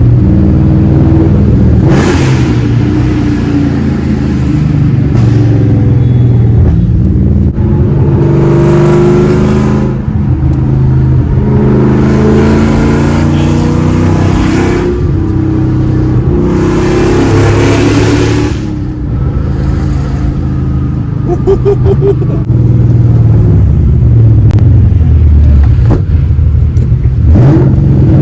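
Supercharged 2001 Ford SVT Cobra V8 with long-tube headers and a muffler delete, running loud and raw under repeated hard acceleration. The engine pitch climbs through each pull and drops at the shifts, several times over.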